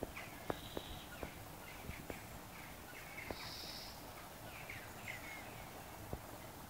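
Faint birdsong: scattered short chirps, and a short buzzy note repeated twice a few seconds apart, over a steady background hiss. Several sharp ticks are scattered through it.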